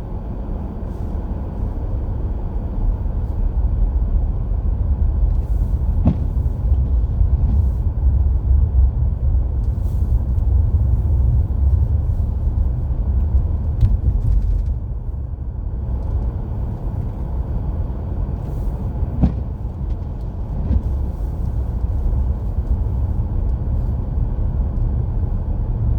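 Steady low rumble of a car's road and engine noise heard inside the cabin while driving on snowy roads, with a few faint clicks.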